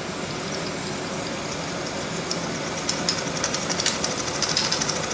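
1921 Empire B30 toy live-steam engine under steam: a steady hiss from the heating boiler. From about three seconds in, a rapid, even ticking starts and grows louder as the engine's mechanism begins to turn over.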